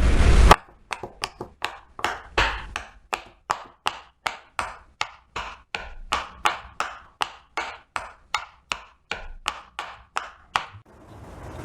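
A long run of sharp, evenly spaced knocks or chopping strikes, about three a second, each with a short ring. A loud noisy sound from the previous clip cuts off about half a second in.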